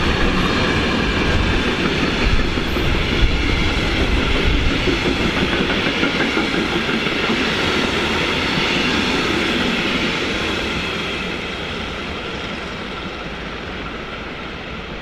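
Freight train wagons rolling past, with a steady rumble of steel wheels on the rails. The sound slowly fades over the last few seconds.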